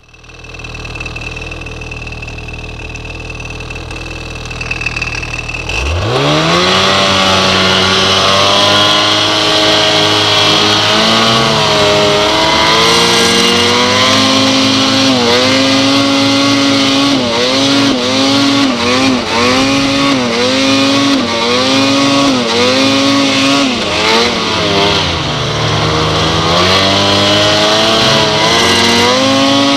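Ski-Doo 800 E-TEC two-stroke snowmobile engine running low and steady, then revving up hard about six seconds in and pulling up a hill, its pitch surging up and down again and again. Sharp pops come through in the second half: the engine backfiring on the climb.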